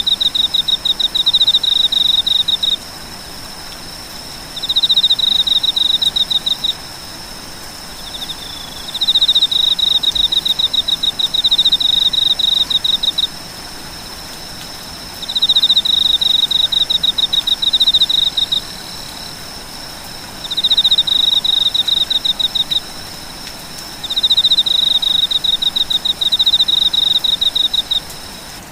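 Night insects calling: a rapid pulsed trill comes in bouts of two to five seconds, six times, with short pauses between, over a steady high-pitched insect drone.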